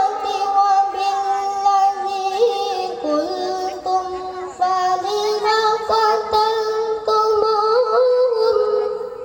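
Melodic Qur'an recitation (tilawah) by a solo qari: one high voice holding long, ornamented notes that bend and turn between pitches, trailing off near the end as the phrase closes.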